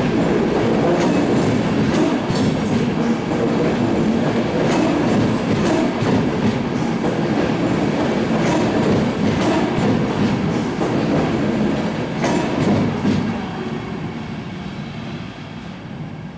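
ÖBB double-deck push-pull train pulling out, its coaches rolling past with steady wheel rumble, rail-joint clicks and a thin high squeal that comes and goes. The noise fades away in the last few seconds as the tail end draws off.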